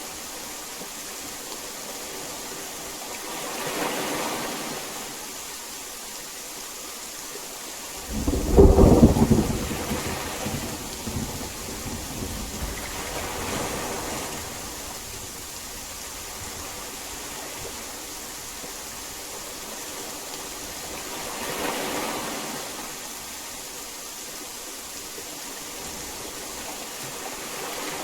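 Steady heavy rain with a loud thunderclap about eight seconds in that rumbles away over the next few seconds. Softer swells rise and fall a few times around it.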